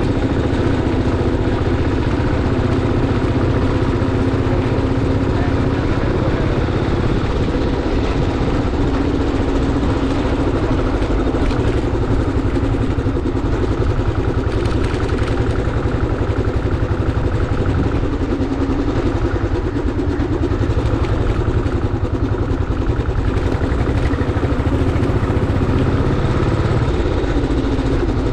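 Motorcycle engine running steadily, with no clear change in speed.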